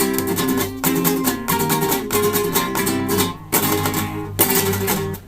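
Solo acoustic guitar played live, closing a piece with hard strummed chords left to ring between strokes. The last chord is damped just before the end.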